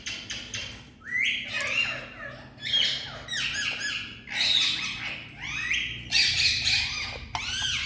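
Indian ringneck parakeet calling in a rapid run of squawks and chirps, each note arching up and down in pitch, in several bursts with short gaps between.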